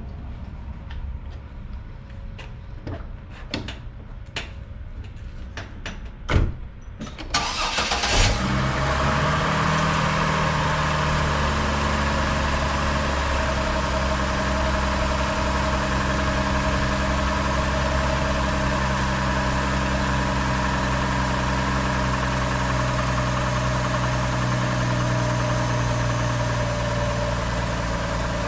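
A few scattered clicks and knocks, then about eight seconds in the Chevy Trailblazer's 4.2-litre inline-six engine starts with a short flare and settles into a steady idle.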